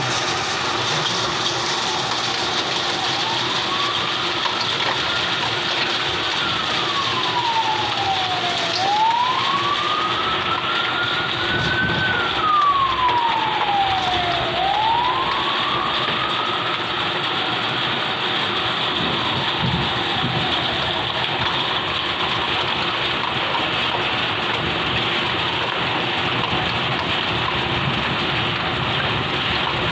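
An emergency vehicle's siren wailing, slowly rising and falling about three times and fading out after about twenty seconds, over the steady hiss of heavy rain.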